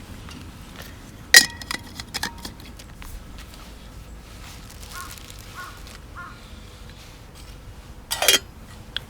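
Metal camp cookware clanking against a small wood-burning stove. One loud ringing clank is followed by a few lighter clinks, and another loud clatter comes near the end. Three short faint calls are heard midway.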